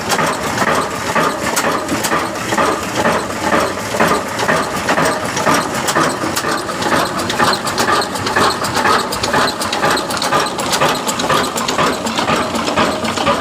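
A 20 HP Ruston Hornsby stationary diesel engine, rated 360 rpm, running steadily with a fast, even mechanical clatter.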